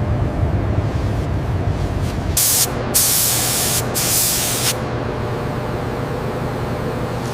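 Spraying hiss in two bursts: a short one about two and a half seconds in, then a longer one of nearly two seconds. A steady low hum runs underneath.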